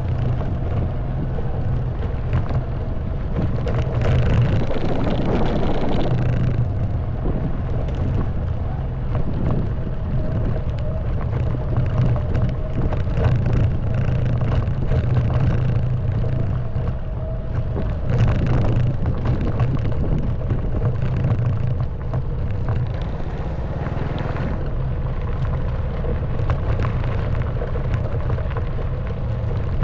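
Honda Wave 110cc single-cylinder four-stroke engine running steadily at low revs, with small knocks and rattles from riding a rough forest track. Brief rushes of wind noise come three times.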